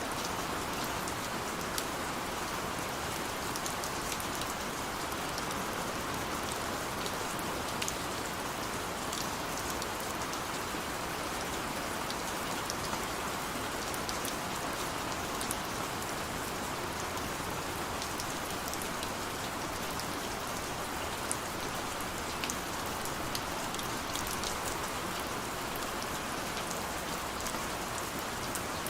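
Steady rain with individual raindrops ticking on a window and nearby surfaces.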